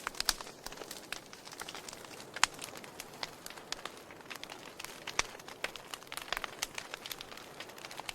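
Wood fire crackling in a fireplace: irregular sharp pops and snaps over a soft steady hiss, with a louder pop about two and a half seconds in.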